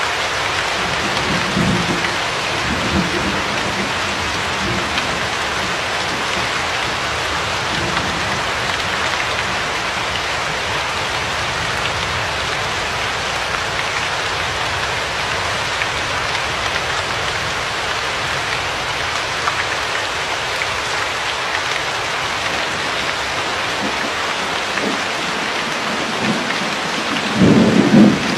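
Steady heavy rain falling with an even hiss. There is a faint low rumble of thunder in the first few seconds, and a louder rumble of thunder near the end.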